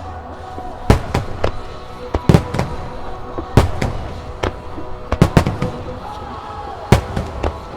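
Aerial firework shells bursting in a string of sharp bangs, several close together around five seconds in, over a rock song playing loudly.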